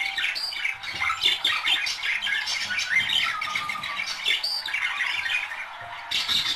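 A pair of budgerigars chattering and warbling without a break, a quick jumble of short chirps with squawks mixed in.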